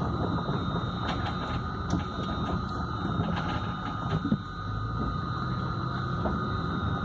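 Steady low rumble of a car driving, engine and road noise heard from inside the cabin, with a faint steady whine above it.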